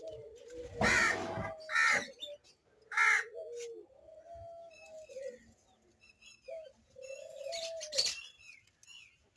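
Ring-necked parakeets calling: three loud harsh screeches in the first three seconds and another near the end, with lower drawn-out gliding calls between them.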